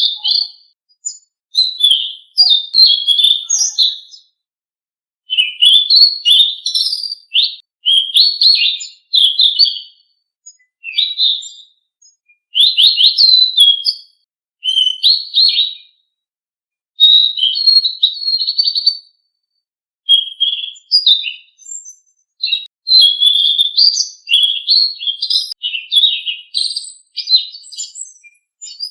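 Selendang biru songbird singing: bursts of rapid, high chirping and whistled phrases, each a second or few long, broken by short pauses.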